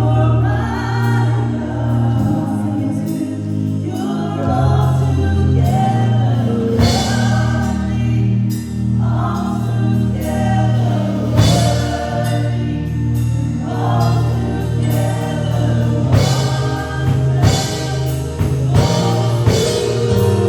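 Gospel worship music: a band with sustained bass and keyboard chords and drum hits, with voices singing over it.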